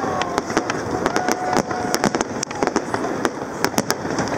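Aerial fireworks display: shells bursting in a rapid, uneven series of sharp bangs and crackles.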